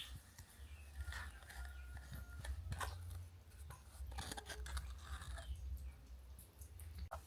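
Faint, irregular scraping and clicking of small hand tools working on a small object, over a low steady hum.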